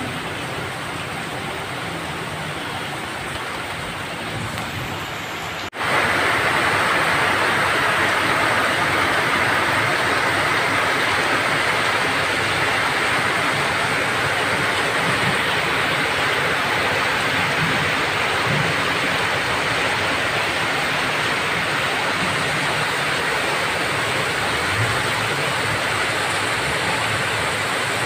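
Steady heavy rain, an even rushing noise. About six seconds in it cuts out for an instant and comes back louder.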